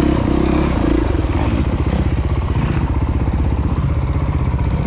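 Dirt bike engine running close by, revving briefly in the first second, then turning over at low revs with an even firing beat.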